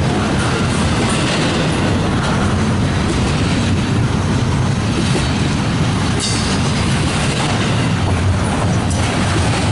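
Freight train rolling past, a loud, steady rumble of wheels on the rails with rail-joint clatter.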